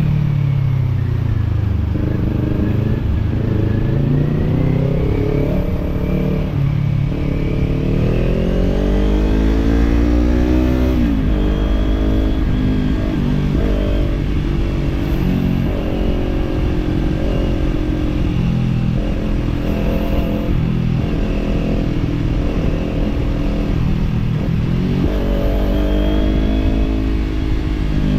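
Kawasaki parallel-twin motorcycle engine with a slip-on exhaust, heard on board while riding. Its pitch climbs under throttle and falls back several times, with sudden drops at gear changes or throttle closings, about a third of the way in and again near the end.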